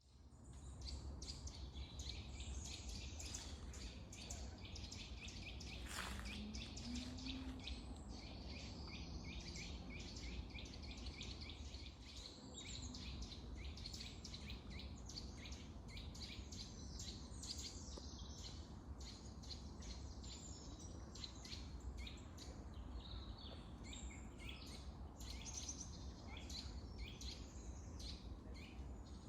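Several songbirds singing and chirping at once, dense and continuous, over a steady low rumble.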